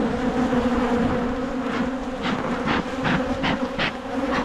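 Many agitated honeybees buzzing around an open hive, a steady hum. From about halfway in, a run of short scratchy noises sounds over it, two or three a second.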